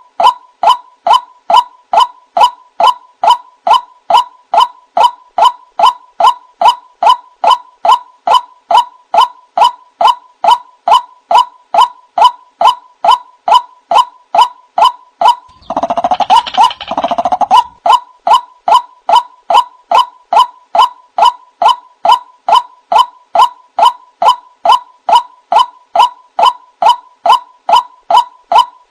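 White-breasted waterhen calling: an even, unbroken series of short hooting notes, about two a second. About 16 s in, a louder, harsher croaking phrase runs for about two seconds.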